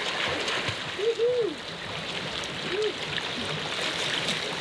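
Water splashing and running steadily. Two short pitched sounds rise and fall over it, about one second and about three seconds in.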